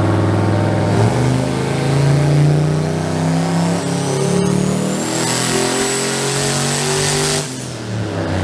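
Turbocharged truck engine making a full-throttle dyno pull, the revs climbing with a turbo whine rising in pitch. The throttle is lifted abruptly about seven seconds in.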